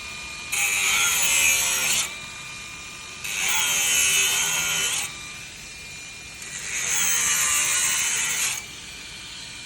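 Handheld electric power tool running in three short bursts of about a second and a half to two seconds, its motor pitch sagging and recovering within each burst as it takes load.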